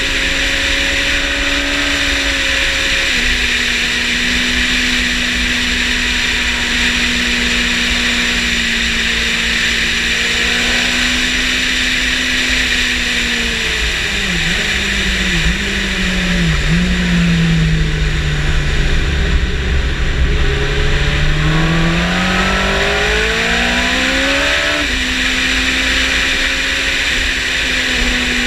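Motorcycle engine running at track speed under heavy wind rush. It holds steady revs, then three quick downshifts come about halfway through, followed by a low-rev stretch. The revs then climb for several seconds before an upshift near the end.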